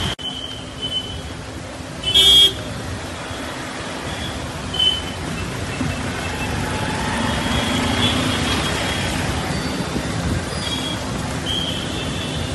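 Road traffic running steadily, with car horns honking in short toots; the loudest horn comes about two seconds in.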